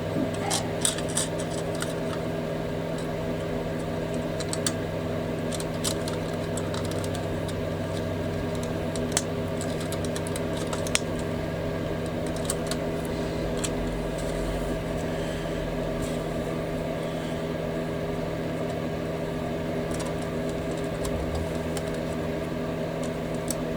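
Light clicks and taps of small plastic model-kit parts and tools being handled and fitted on a workbench, scattered irregularly and a little busier in the first couple of seconds, over a steady mechanical hum.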